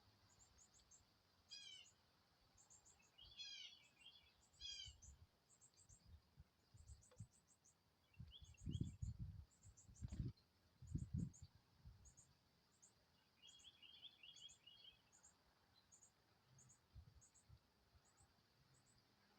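Faint songbird calls outdoors: short high chirps repeating throughout, with a few quick descending trilled phrases near the start and again past the middle. A few low thumps come about halfway through.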